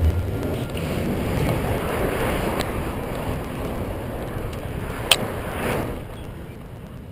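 Wind rushing over a GoPro microphone on a moving bicycle, a steady noise throughout, with a single sharp click about five seconds in.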